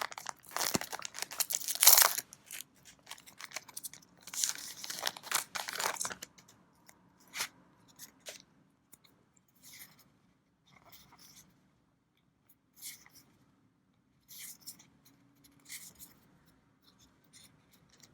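Foil trading-card booster pack crinkling and tearing in loud bursts over the first six seconds, then faint rustles and light clicks of cards being handled.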